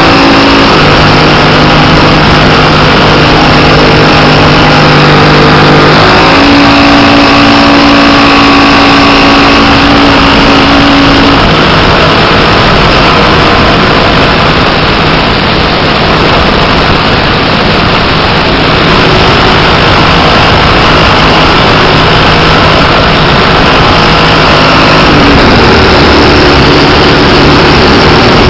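Engine and propeller of a 1/5-scale Piper Cub RC model aircraft running, heard loud from a camera on the wing strut, with heavy wind rush over the microphone. The engine note steps to a new pitch several times.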